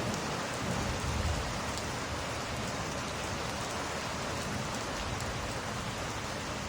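Steady rain, with a low rumble of thunder that fades out in the first second and a half.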